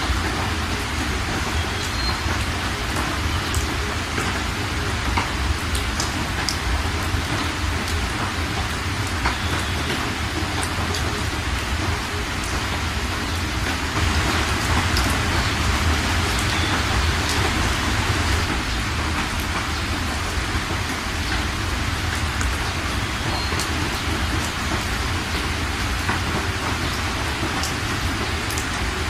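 Steady rain falling on flooded ground, with scattered sharper drop hits, swelling a little about halfway through.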